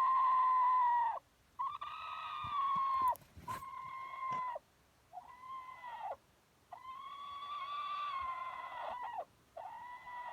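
A chicken making a run of about six long, drawn-out, song-like calls, each held on a steady pitch for one to two and a half seconds before dropping off at the end, with short pauses between them.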